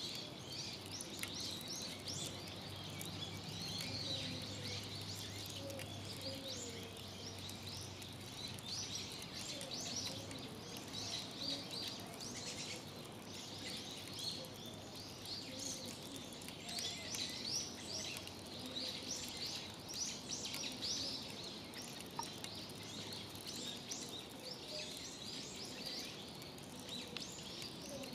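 Small birds chirping and twittering in a steady, irregular outdoor chorus over a faint background of environmental noise.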